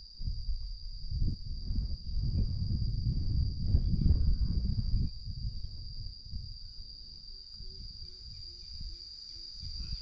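An insect chorus trilling in one steady, unbroken high-pitched drone. Low rumbling noise lies under it for about the first five seconds, and a faint run of short, evenly spaced low notes comes near the end.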